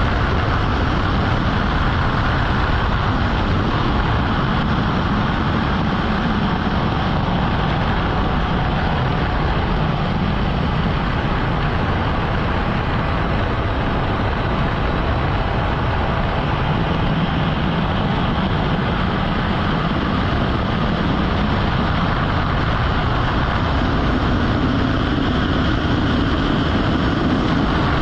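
Steady jet engine noise that holds an even level throughout, with no rise or fall of a passing aircraft.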